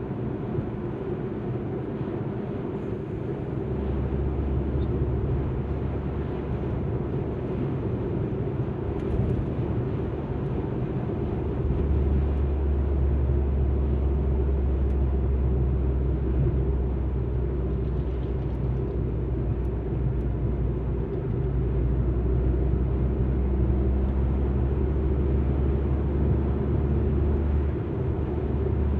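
An Alfa Romeo MiTo on the move, heard from inside the cabin: a steady low drone of engine and road noise. It gets louder about four seconds in and again about twelve seconds in.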